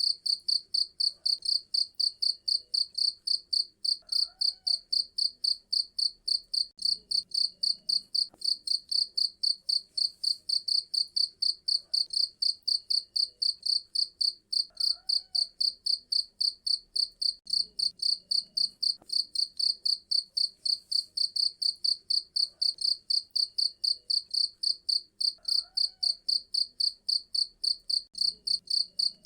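A cricket chirping steadily and rapidly, about four to five high-pitched chirps a second, without a break.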